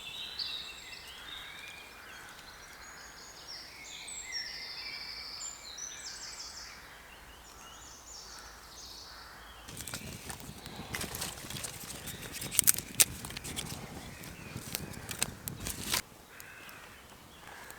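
Woodland songbirds chirping and singing, then from about ten seconds in several seconds of close scraping and rustling with sharp cracks that stops abruptly.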